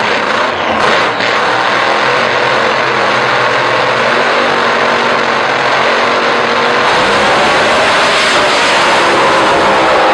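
Drag racing car engine running loud at high revs, a dense roar whose pitch dips and climbs again about seven seconds in.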